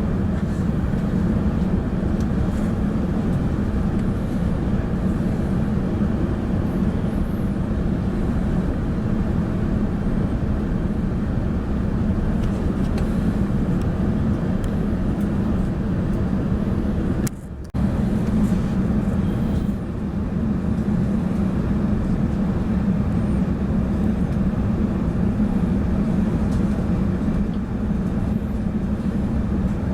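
Steady cabin hum of an Airbus A380's engines and airflow, heard from inside the cabin while the airliner taxis out for takeoff. The sound cuts out briefly a little past halfway through.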